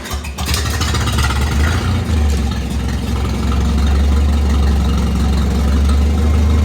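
Old gasoline tractor engine running just after starting, still on choke, which it doesn't really like. It settles into a steady low run and gets a little louder after about two seconds.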